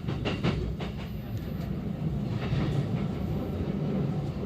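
Running sound of a JR East E233-8000 series electric train, heard from inside the car: a steady rumble of wheels on rail, with a few sharp clacks about the first half-second.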